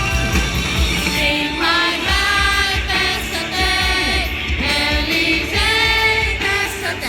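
Live rock concert music with singing: voices hold long notes over the band, coming in about a second in.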